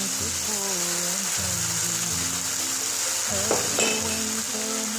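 Tomato-paste sauce frying in oil in a pan, with a steady sizzle as it is stirred and a brief clink or scrape a little past halfway. A quiet melody plays underneath.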